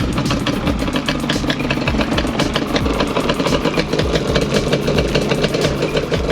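Quad (ATV) engine idling steadily, a rapid even pulsing.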